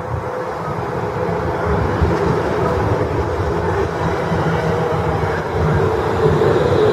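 London Midland Class 350 Desiro electric multiple unit running at the platform: a steady rumble under a held whine, growing louder, with the whine dipping slightly in pitch near the end.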